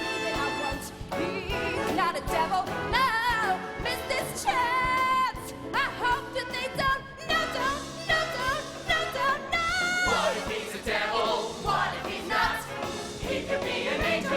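Musical theatre song: singing voices holding long, wavering notes with vibrato and sweeping runs over band accompaniment, the sound growing denser about ten seconds in.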